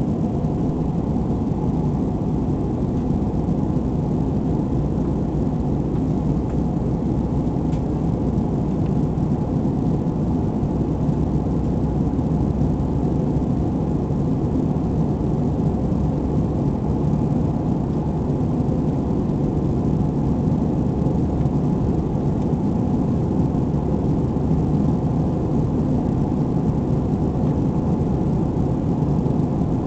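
Airbus A320 jet engines and airflow heard inside the passenger cabin during the climb: a steady, even low drone with no change in pitch.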